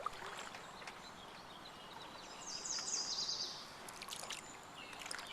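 Water trickling and dripping off a canoe paddle as it strokes through the water. About halfway through, a bird sings a short run of high, falling notes.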